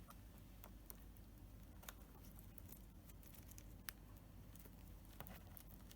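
Faint, scattered clicks and taps of a cockatiel's beak nibbling at small hard objects, about one every second, over near silence.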